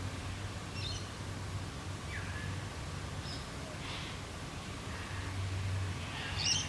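Australian bush ambience: birds give short, scattered chirps over a steady low rumble, with the loudest call coming near the end.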